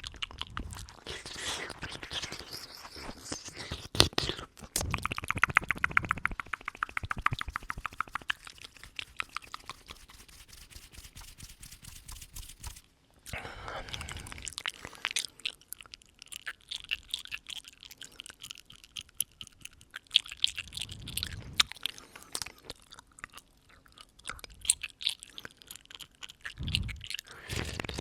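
Close-up ASMR mouth sounds: wet clicks and smacks right at the microphone, with a dense run of rapid clicks a few seconds in, and a few softer breaths blown onto the microphone.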